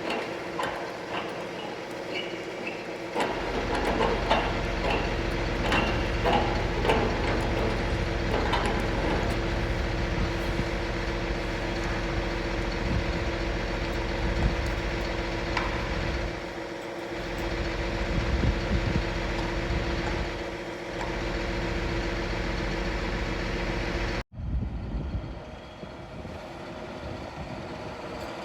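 John Deere 4955 tractor's diesel engine running steadily, with a deeper rumble coming in about three seconds in. Near the end the sound cuts off abruptly and a quieter engine sound follows.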